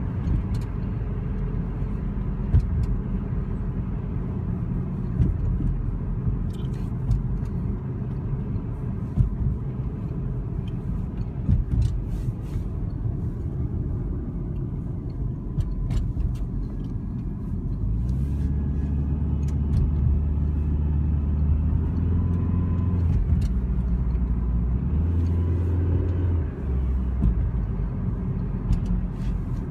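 2003 Dodge Neon SX's 2.0-litre four-cylinder engine running with a steady low rumble and a faint whine. Past the halfway point the drone gets stronger and its pitch steps up and down a few times.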